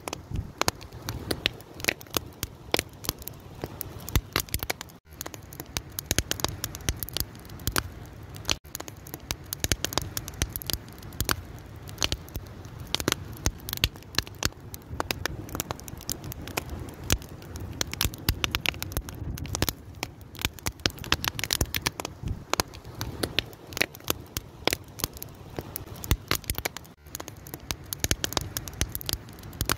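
Wood fire crackling: a dense, irregular run of sharp pops and snaps over a steady low rush of burning. The sound cuts out for an instant three times.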